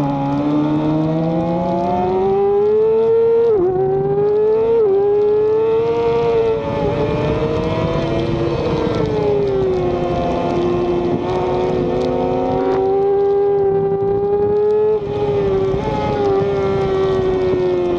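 Racing motorcycle engine heard onboard at speed, its pitch climbing with quick upshifts about 3.5 and 5 seconds in. It then eases off, holds fairly steady, and drops sharply once more near 15 seconds.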